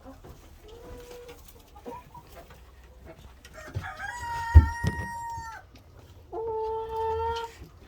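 Rooster crowing twice, a long crow about four seconds in and a shorter one near the end, with soft hen clucks before them. A sharp thump lands in the middle of the first crow.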